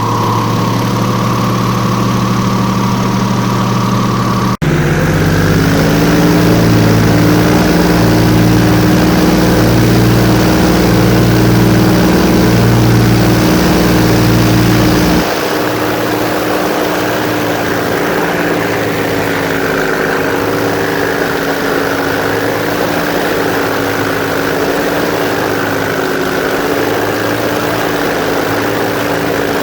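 Airboat engine and propeller running steadily. About four and a half seconds in there is a sudden break, after which it runs louder with a slow, regular throb. At about fifteen seconds it drops back to a lower, steady level.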